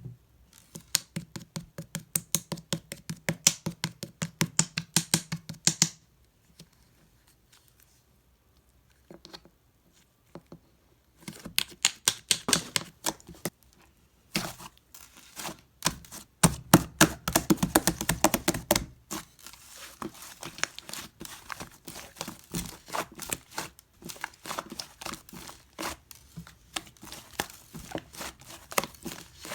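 Fluffy brown slime being pressed and poked by hand, giving rapid runs of small sticky pops and clicks, several a second. The clicking stops for about five seconds about a fifth of the way in, then resumes and carries on.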